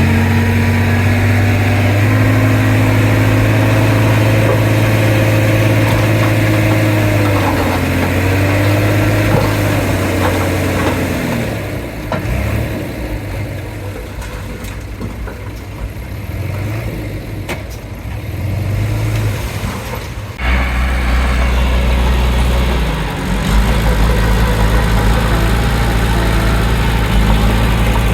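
Heavy diesel engines of earthmoving machinery working, their pitch rising and falling for the first ten seconds or so. The sound then eases off, and about twenty seconds in a deeper, louder engine rumble cuts in abruptly.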